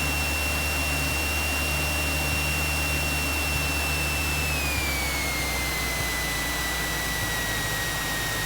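Light aircraft cockpit noise on final approach: a steady engine drone and airflow hiss, with a high thin whine that slides lower about halfway through.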